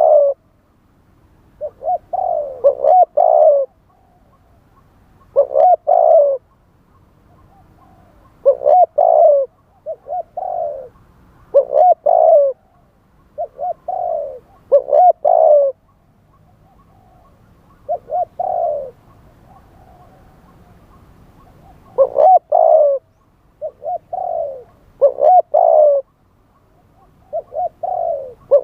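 Spotted dove cooing: short phrases of several rolling coos, repeated every second or two, with a longer pause a little past the middle.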